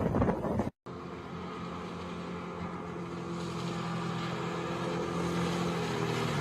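Wind rushing on the microphone that cuts off suddenly under a second in, followed by a motorboat engine running at a steady pitch.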